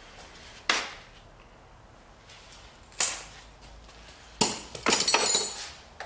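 Metal clanks from hand tools and engine parts being handled during an engine teardown. There is a single sharp knock near the start and another about two seconds later, then a quick run of clattering, ringing clanks shortly before the end.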